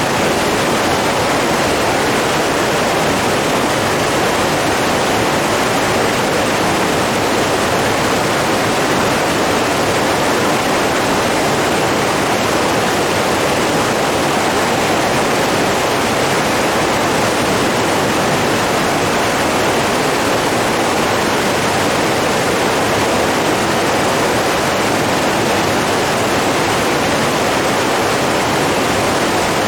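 Steady rushing of flowing water, an even unbroken noise with no separate splashes.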